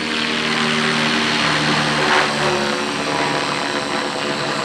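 Electric RC helicopter hovering inverted close to the ground: a steady motor whine and rotor-blade whir, with the rush of the blades swelling about two seconds in.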